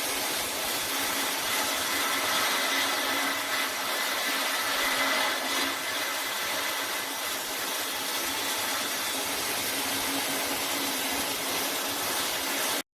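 A power tool running steadily under a constant load, with a faint steady hum underneath; the sound cuts off abruptly near the end.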